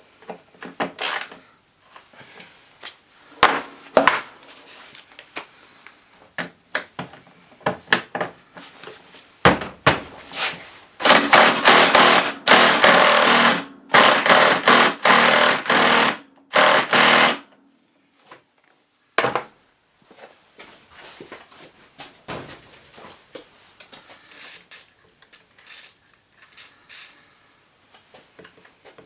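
Workshop tool sounds during an ATV strip-down: scattered metal clinks and knocks, then a power tool run loudly in several bursts with short breaks from about a third of the way in, then more light knocks.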